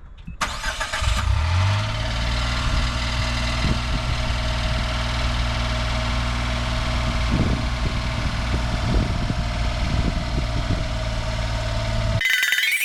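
Suzuki Every's 660 cc three-cylinder engine starting and settling into a steady idle, then cut off just before the end.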